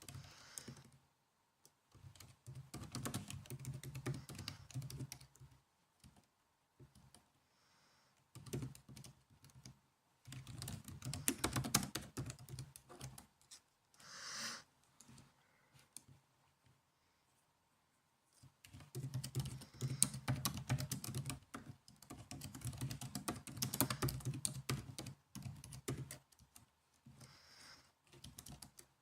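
Typing on a laptop keyboard: quick runs of key clicks in several bursts, with short pauses and a few scattered taps between them.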